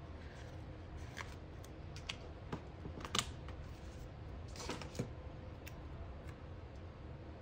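Sticker sheets and paper being handled on a desk: scattered light clicks and taps with a couple of short rustles, the sharpest about three seconds in, over a steady low hum.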